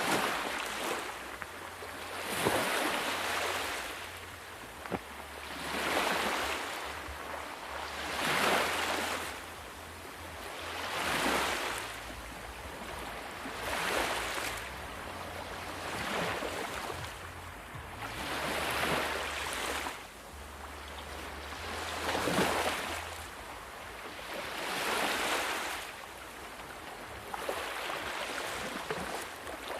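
Sea waves washing in and drawing back, a surge of surf about every two to three seconds, with a low rumble underneath.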